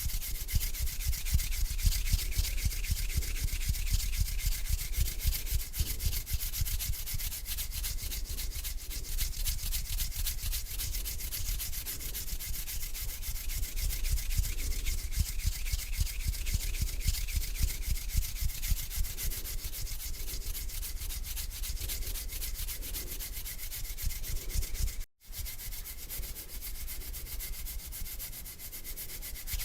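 Slow hand rubbing: palms and fingers rubbing together in a continuous dry rubbing, breaking off for an instant near the end.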